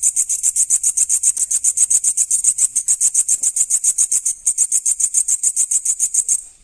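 A grasshopper chirping: a loud, high-pitched, rasping pulse train, about eight or nine pulses a second, that stops suddenly near the end.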